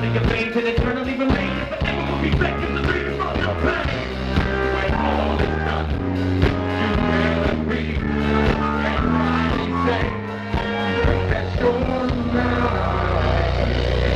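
Live band playing rock music with bass, guitar and drums, a voice singing over it. Near the end the playing gives way to a sustained low held sound.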